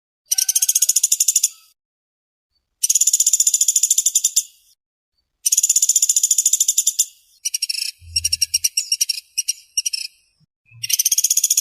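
A pelatuk beras (pelatuk sampit) woodpecker calling in rapid, tightly packed high trills. Each burst lasts about a second and a half, with short pauses between them. In the second half the trill breaks into a choppier, stuttering series before a steady burst returns.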